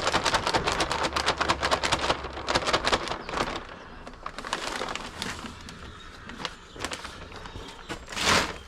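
Dry cement powder pouring from the cut corner of a cement bag into a bucket, a dense grainy crackle for the first few seconds that then dies down. A short loud rush of noise comes near the end.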